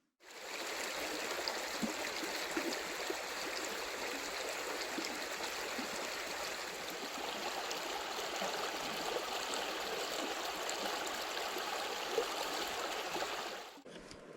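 A forest stream flowing over stones in a steady, even rush of water. It cuts off abruptly near the end.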